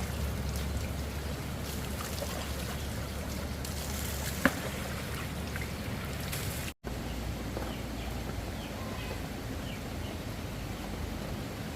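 Steady rushing noise of water, rain and running water, with one sharp click about four seconds in. The sound cuts out for an instant just past the middle.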